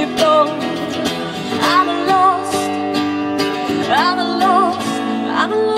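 A song: strummed acoustic guitar under a voice singing drawn-out phrases with vibrato.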